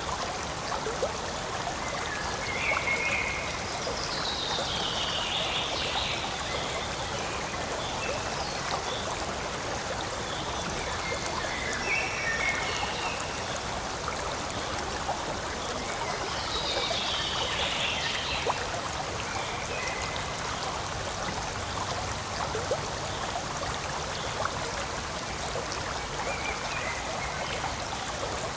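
Forest stream flowing: a steady rushing and trickling of water, with brief brighter gurgles every few seconds.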